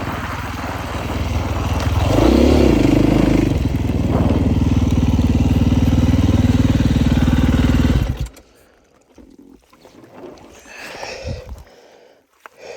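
Husqvarna 450cc dirt bike engine running, revving up about two seconds in and then held at steady high revs. It cuts off suddenly about eight seconds in, leaving only faint scuffs and rustling.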